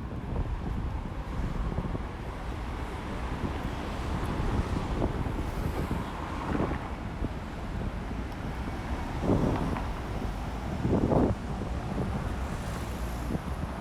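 Strong wind buffeting the phone's microphone: a steady low rumble with gusts, the loudest about nine and eleven seconds in.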